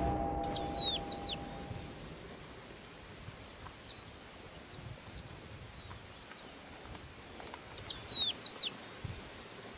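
A small songbird sings the same short phrase of high, sliding whistled notes twice, about a second in and again louder near eight seconds, with a few softer single notes between, over a faint steady outdoor background. A held musical tone fades out in the first two seconds.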